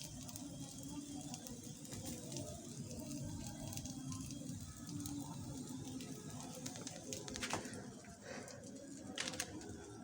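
Faint, low bird cooing over a quiet steady background, with a couple of sharp clicks near the end.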